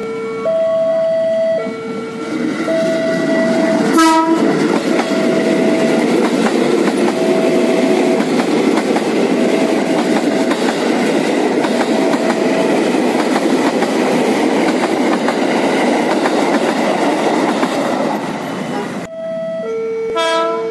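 Level-crossing warning chime alternating between two tones, drowned out as a 205-series electric commuter train passes close by, its wheels clattering over the rail joints. A short horn blast sounds about four seconds in. Near the end the two-tone crossing chime is heard again with another short horn blast.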